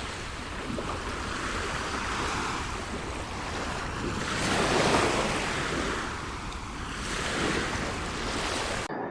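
Ocean surf washing onto a beach, the rush of the waves swelling and falling roughly every two to three seconds, with wind buffeting the microphone.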